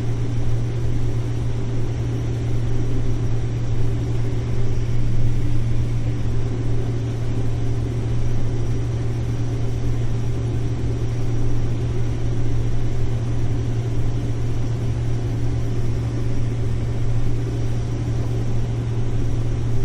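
Combine harvester running steadily while shelling corn: a constant low engine hum with even machine noise over it.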